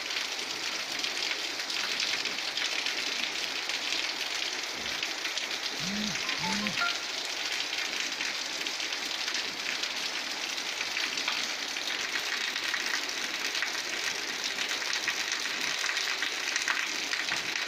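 Heavy rain falling steadily, a constant even hiss. Two short low sounds come close together about six seconds in.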